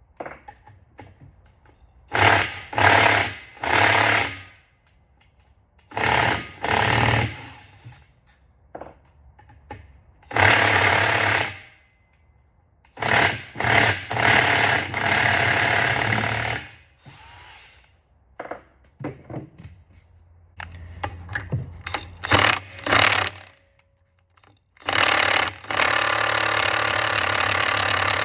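Impact wrench hammering on bolts in repeated bursts of one to three seconds with pauses between, the longest burst near the end; the bolts are stuck tight.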